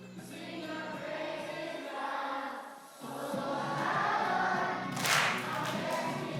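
A group of voices singing together over a music backing track, with a short dip about halfway through and a brief bright crash-like noise about five seconds in.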